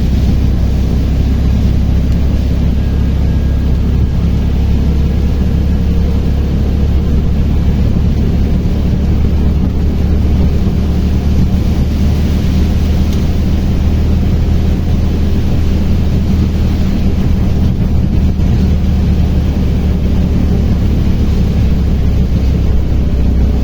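Auto-rickshaw (tuktuk) running steadily while being ridden, heard from on board: a continuous low drone with no change in speed.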